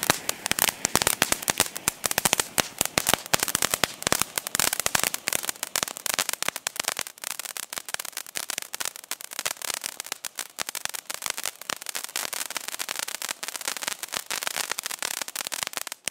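Two small crackling fountains (ground 'volcanoes') burning together: a dense, rapid crackle of many sharp pops that gradually gets quieter and thinner, then stops abruptly at the very end as they burn out.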